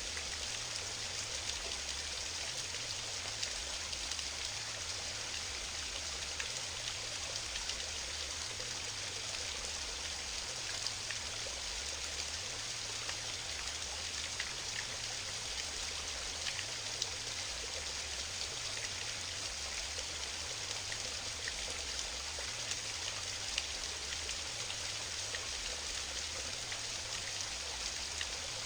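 Small mountain waterfall: water steadily rushing and splashing, with occasional sharper drips and splashes standing out.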